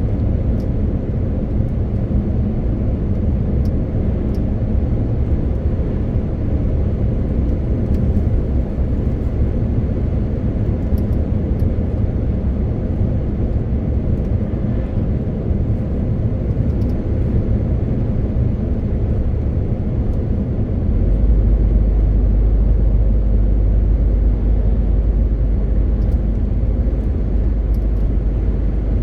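MAN TGX 18.520 truck's 12.4-litre six-cylinder diesel running steadily under way, with tyre and road noise. About two-thirds of the way through, the low engine rumble deepens and grows slightly louder.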